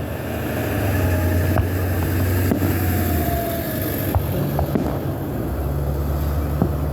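A motor vehicle engine running close by, its low hum shifting in pitch a few times, with scattered sharp pops of fireworks over it.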